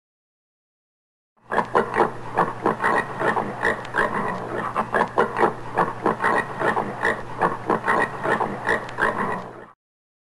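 Common warthog giving a rapid series of short grunts, several a second, over a steady low hum. They start about a second and a half in and stop abruptly near the end.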